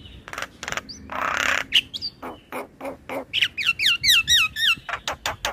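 Male Javan myna singing a varied song: sharp clicks, a harsh rasping note about a second in, then a quick run of looping whistled notes, ending in rapid clicks.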